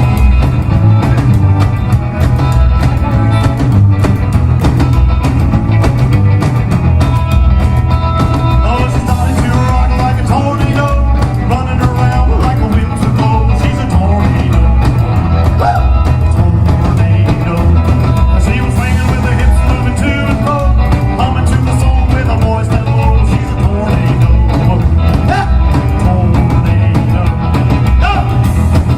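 Live rock band playing loudly, with guitar and drums driving a steady beat.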